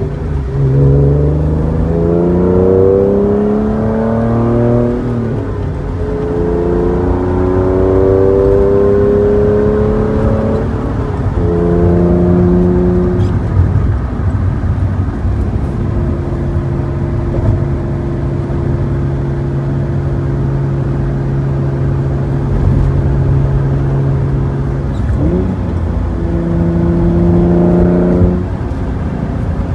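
In-cabin sound of a 1992 Acura NSX's DOHC VTEC V6 with a manual gearbox, fitted with Comptech headers, pulling through the gears. The engine note rises twice, dropping at each upshift, then holds steady at cruise.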